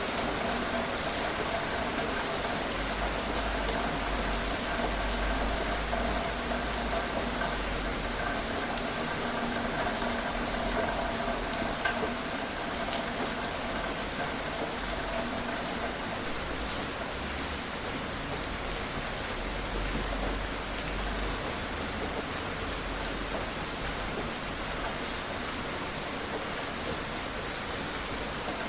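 Gentle steady rain falling and pattering on surfaces, with no thunder.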